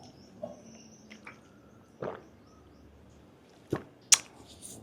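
Someone eating chewy grilled octopus tentacles: a few short, sharp mouth clicks and smacks spread over a quiet background.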